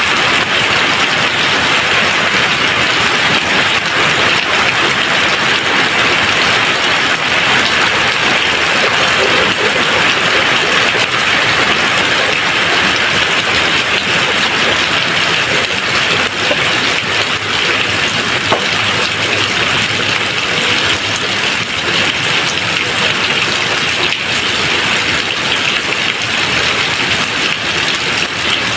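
Steady, even rain, a dense hiss of falling water with faint scattered drop ticks.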